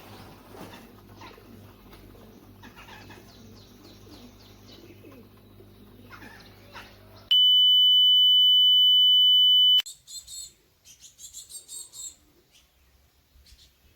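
Small birds chirping over a steady low hum. About seven seconds in, a loud steady electronic beep lasts about two and a half seconds and cuts off abruptly, followed by a few more close chirps.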